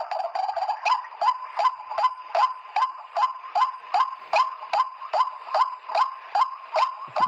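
White-breasted waterhen's 'ruak' call: a short, sharply falling note repeated steadily about three times a second.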